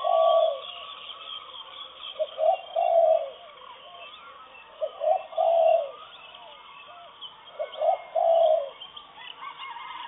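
Dawn birdsong: one bird repeats a low call four times, about every two and a half seconds, each time two quick notes followed by a longer note. Other birds chirp more faintly between its calls.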